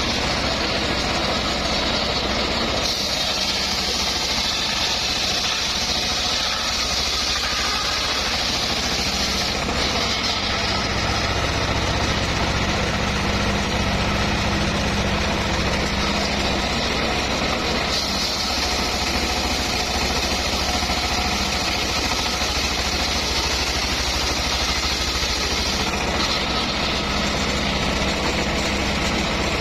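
Homemade engine-driven circular sawmill running steadily while sawing a mahogany log. A higher-pitched edge comes and goes in stretches of several seconds over the steady engine sound.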